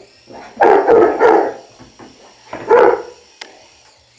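Saint Bernard puppy barking: a quick run of barks about a second in and one more near three seconds, over the faint steady high whine of a toy helicopter's electric motor.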